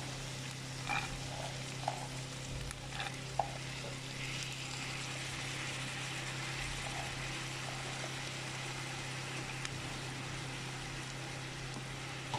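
Onions and chickpeas frying in olive oil in a stainless steel pot: a steady sizzle, with a few sharp clicks in the first few seconds.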